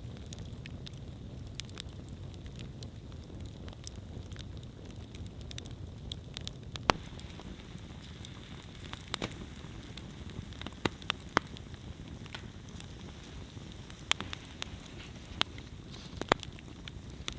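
Wood campfire burning, with a steady low rush of flame under irregular sharp crackles and occasional louder pops.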